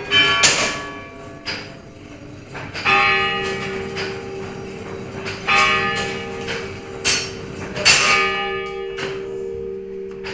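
Bells struck at an irregular pace, about seven strokes, each one ringing on over the steady hum of larger bells still sounding.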